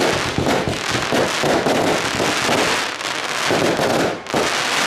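Fireworks going off in a dense, continuous run of rapid pops and crackles, easing briefly about three and four seconds in.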